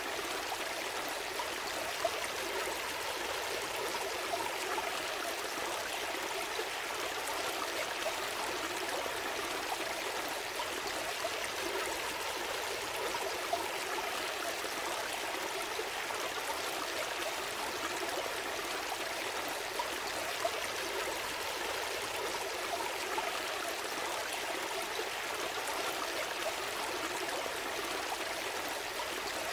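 A gentle stream flowing steadily, its water trickling and gurgling with no break.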